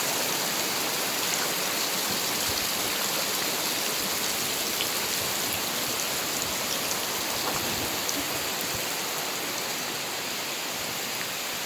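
Steady, even hiss of water noise with no engine heard, easing slightly toward the end.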